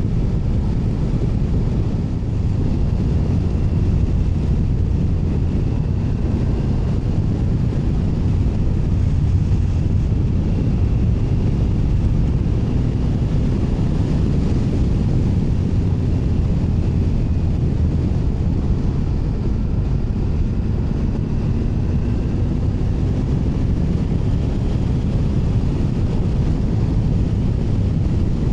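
Triumph Tiger 900 Rally Pro's inline three-cylinder engine running steadily while the motorcycle is ridden along a country road, mixed with wind rush on the microphone.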